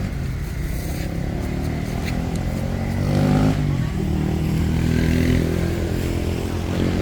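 Road traffic passing: vehicle engines running, with one getting louder and rising in pitch about three seconds in.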